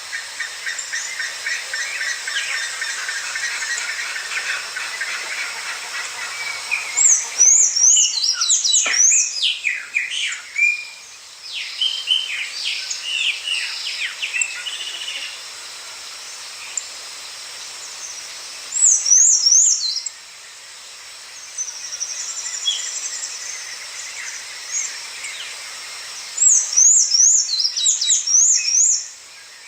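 Wild birds singing and chirping, with many short high calls; a rapid, high zigzagging song phrase comes three times.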